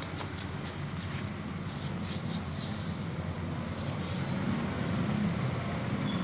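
Off-road jeep's Suzuki Jimny 1000 cc four-cylinder engine idling steadily, with a few light clicks about two seconds in.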